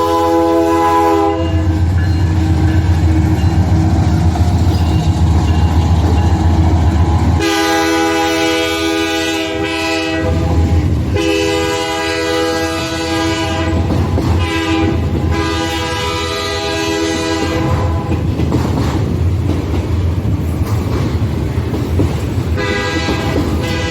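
A diesel locomotive's multi-chime horn sounding the grade-crossing pattern of two long blasts, a short one and a long one, over the low rumble of the locomotive and the rolling train. An earlier blast ends about a second in, and another begins near the end.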